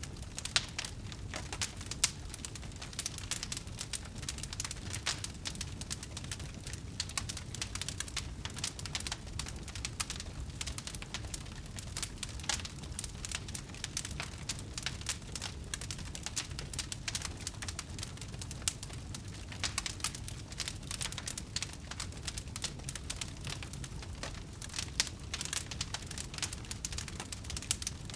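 Wood fire burning in a fireplace, with a steady low rumble of flame under dense, irregular crackles and pops; a few sharper pops stand out.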